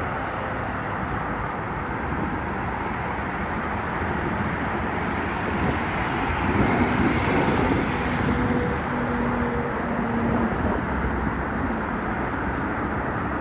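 Steady road traffic noise from passing vehicles, swelling about six seconds in as a louder vehicle goes by, with a brief low engine hum a little later.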